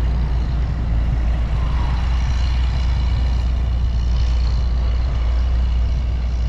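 Steady highway traffic noise with trucks among the passing vehicles, under a constant deep low rumble.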